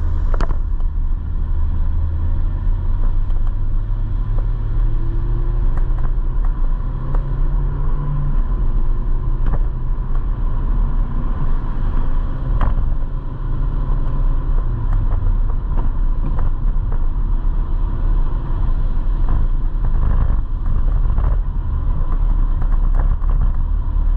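Motorcycle engine running under way on an uphill road, its low note stepping up and down a few times over a steady rush of wind and road noise.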